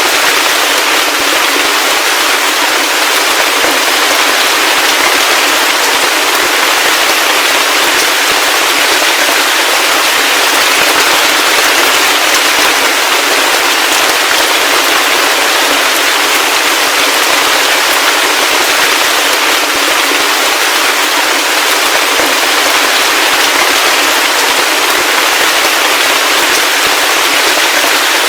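Heavy rain falling steadily, a dense crackling patter of countless drops with no low rumble and no thunder.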